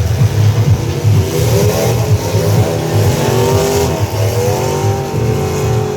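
Truck engines revving, their pitch climbing and falling several times, over a steady pulsing low rumble.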